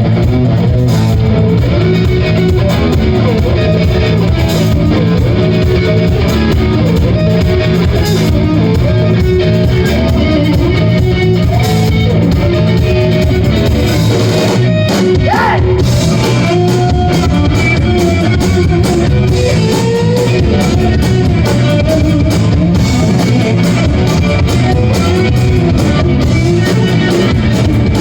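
Live rock band playing: electric guitar over bass and drums, recorded on a mobile phone's microphone with loud, low-quality sound.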